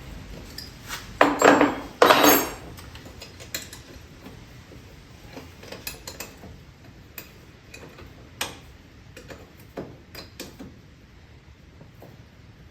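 Metal clinks and clatter of a wrench and tools working on an ATV's brake-line banjo bolt: two louder clattering bursts about a second and two seconds in, then scattered light clicks.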